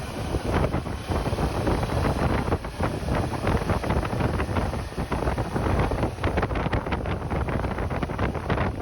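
Wind buffeting the microphone on a moving motorcycle, gusting and fluttering over a low rumble of engine and road noise.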